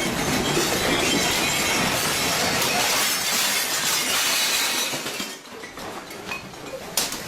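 Earthquake shaking a house: a loud, continuous rumbling and rattling of the building and its contents, with glass among it. It dies down about five seconds in, leaving a few sharp knocks.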